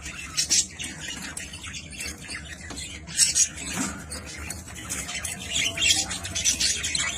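Ornamental cage birds squawking and chirping: many short, harsh calls at irregular intervals, with louder ones about half a second in, around three seconds in and near six seconds.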